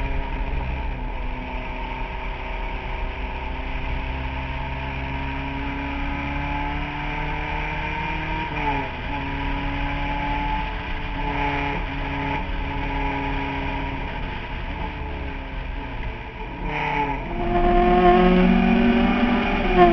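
Fiat 124 race car's twin-cam four-cylinder engine heard from inside the open cockpit at racing speed, its pitch climbing steadily and dropping at a gear change about eight and a half seconds in. Near the end it dips briefly, then comes back louder.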